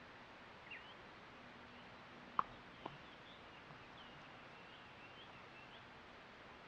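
Faint, high bird chirps and short whistled glides over a steady soft hiss of outdoor ambience, with two short sharp notes about half a second apart a little over two seconds in.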